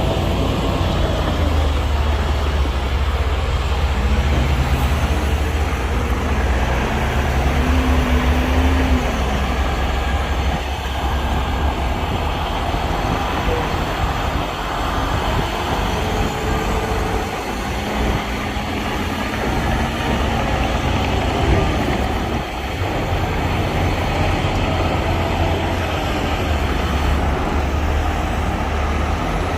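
Diesel engines of heavy earthmoving machines running with a deep, steady rumble, their engine speed rising and falling as they work.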